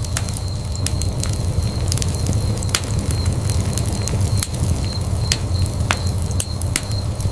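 Wood fire burning in a fireplace: a steady low rumble with sharp crackles and pops at irregular moments, a few of them louder snaps.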